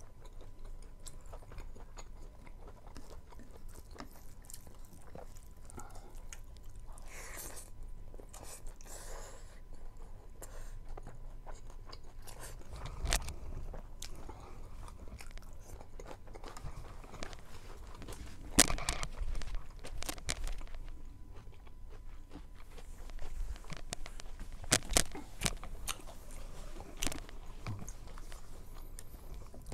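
A person chewing and crunching a mouthful of rice and meat close to the microphone, with irregular crackles and a few sharp crunches, the loudest about two-thirds of the way through.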